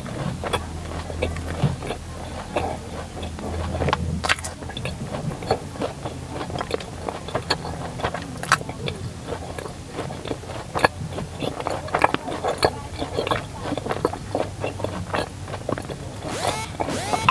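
Close-up chewing and biting of a sesame and coconut-filled flour dessert: many small, irregular mouth clicks and smacks over a low steady hum.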